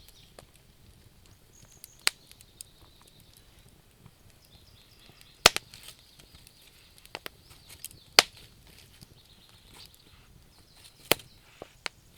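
Campfire of burning wood crackling, with a handful of sharp pops (four loud ones spread through, smaller snaps between) over a faint high-pitched chirring in the background.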